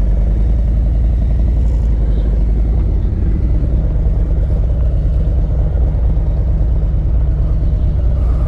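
Harley-Davidson V-twin engine running at low speed, a steady, deep, evenly pulsing exhaust.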